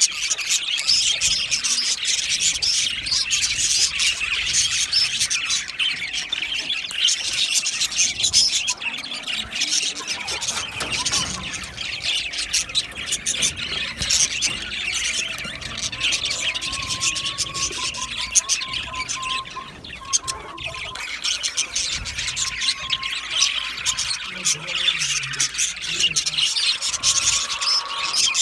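A flock of budgerigars chattering, chirping and squawking together in a dense, continuous warble. A lower wavering note joins for several seconds past the middle and again near the end.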